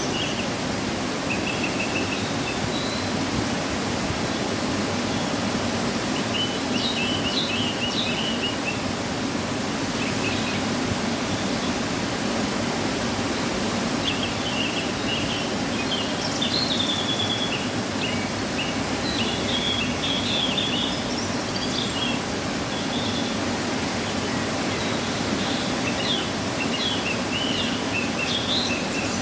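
Waterfall after rain, its water rushing steadily without a break. Small birds chirp in short high phrases on and off above it.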